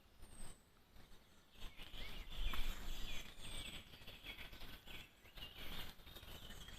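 Forest ambience: small birds chirping in short falling calls, with a couple of faint high whistles, over a low uneven rumble of outdoor noise.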